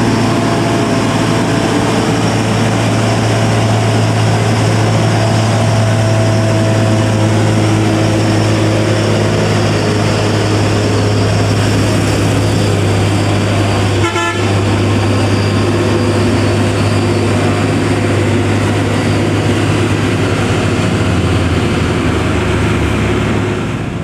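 Heavy diesel truck engine straining under load up a steep climb, a steady deep drone that dips briefly about halfway and eases off near the end.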